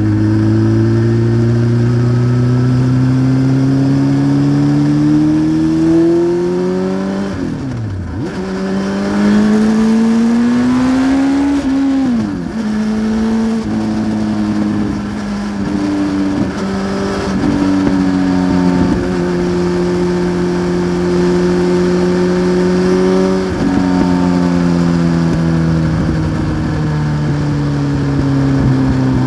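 1993 Honda CBR900RR Fireblade's inline-four engine running through a Remus exhaust under way. The revs climb steadily, dip sharply twice, about eight and twelve seconds in, as it shifts up, then hold fairly steady before falling slowly over the last several seconds as the rider rolls off.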